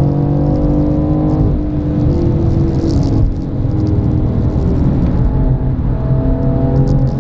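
BMW M4's twin-turbo straight-six pulling hard at speed, heard from inside the cabin over road and tyre noise; the engine note changes pitch in steps, with a brief drop in level a little over three seconds in.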